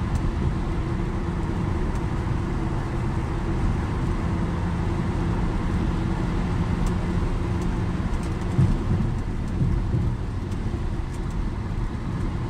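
Steady road and engine rumble heard inside the cabin of a car driving at speed, with a low hum that holds through the middle.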